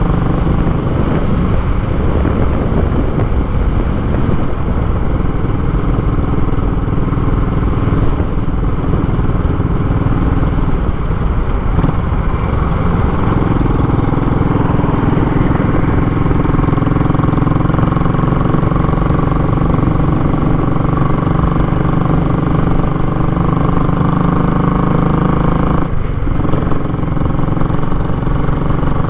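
Royal Enfield Classic 500 single-cylinder engine running through a short, raw exhaust while riding, a loud steady thumping note. The pitch shifts a few times with the throttle, and there is a brief break in the note near the end.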